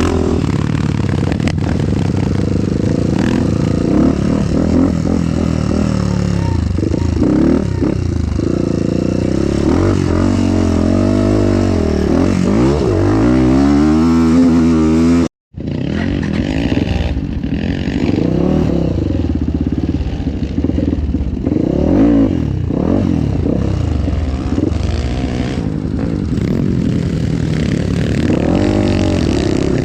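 Dirt bike engine revving up and down as it is ridden around a motocross track, pitch climbing on the throttle and dropping off between. The sound cuts out completely for a moment about halfway through.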